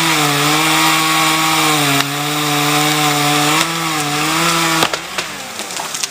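Chainsaw revved up to full throttle and run at high speed, its pitch dipping slightly twice as it cuts wood. It cuts off abruptly about five seconds in, followed by a few faint clicks.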